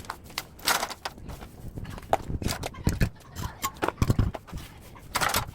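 Irregular metal knocks and clanks from tools and parts while a scrapped air-conditioner outdoor unit is taken apart, some hits ringing briefly.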